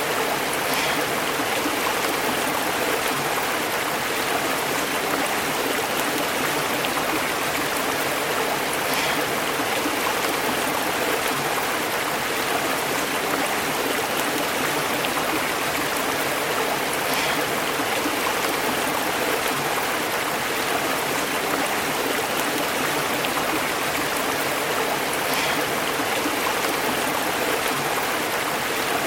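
A stream flowing steadily and bubbling over rocks.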